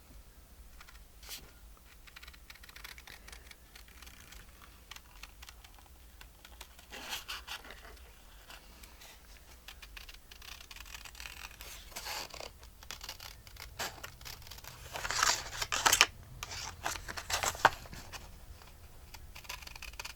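Scissors cutting paper: irregular snips and paper rasps, sparse at first and busiest and loudest near the end.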